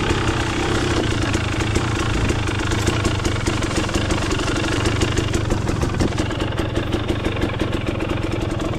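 KTM 250 XC two-stroke single-cylinder dirt bike engine running at low, fairly steady revs.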